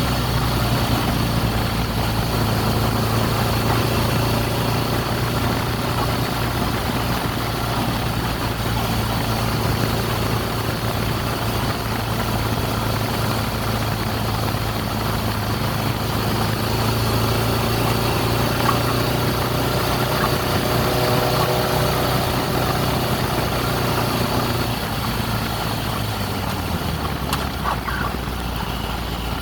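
A 2002 Kawasaki ZX-6R's carbureted inline-four engine idling steadily, its idle dropping to a lower pitch about 25 seconds in. The owner suspects an odd running noise from carburettor or fuel trouble after the bike sat unused.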